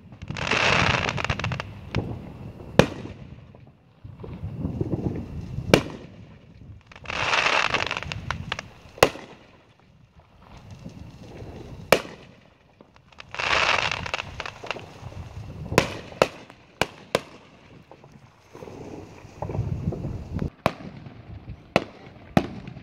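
Fireworks display: aerial shells bursting with sharp bangs, about a dozen, several coming close together in the second half. Between the bangs are stretches of crackling lasting a second or two, from glittering star bursts.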